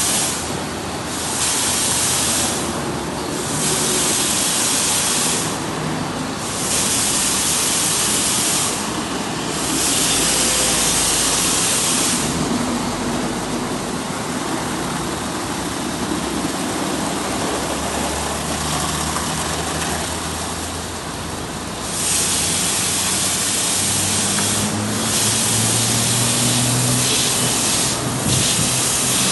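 Loud hissing spray that starts and stops in bursts of one to three seconds, over a low running hum.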